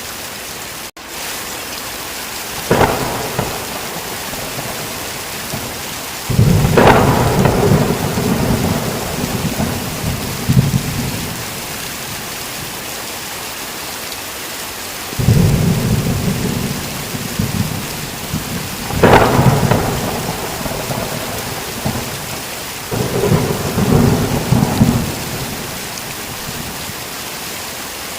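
Thunderstorm: steady heavy rain with repeated thunder. There is a short crack about three seconds in, then long, low rolling peals, each starting with a sharp crack. The biggest come around a third of the way in and again past the middle, with another shortly before the end. The sound drops out for a moment about a second in.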